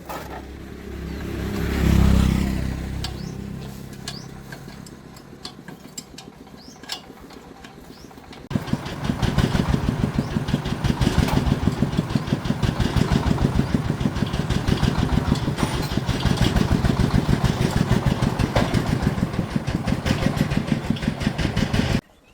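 An engine running steadily with a fast, even putter, which starts abruptly about eight seconds in and cuts off near the end. Before that, a louder low engine sound swells and fades about two seconds in.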